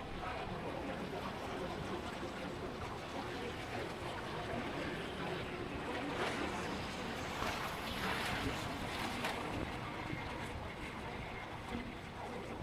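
Steady rush of wind and road noise from riding a motorbike through traffic, swelling somewhat between about six and nine seconds in.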